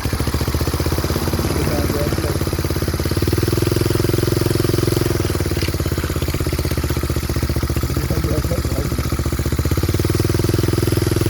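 Homemade helicopter's small engine running steadily with a fast, even firing beat, growing louder about three seconds in and again near the end.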